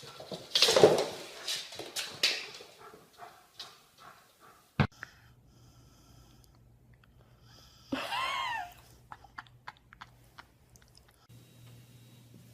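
A pet's noises: rustling and breathing sounds at first, then one short cry that rises and falls in pitch about eight seconds in.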